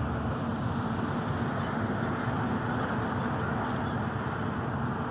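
Steady drone of a car's engine and tyres on the road, even and unchanging.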